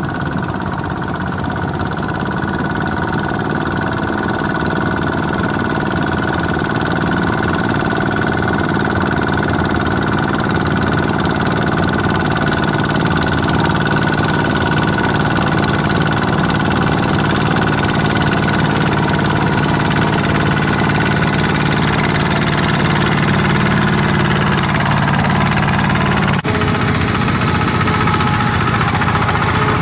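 Small Kubota tractor's diesel engine running steadily, getting gradually louder over the first few seconds.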